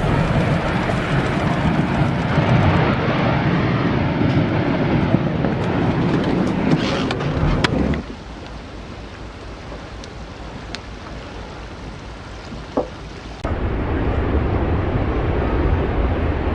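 Heavy rumble and rushing water with wind buffeting the microphone, from glacier ice crashing into the sea. About eight seconds in it drops suddenly to a much quieter stretch with a few faint sharp cracks, then the loud rumble and wind return abruptly near the end.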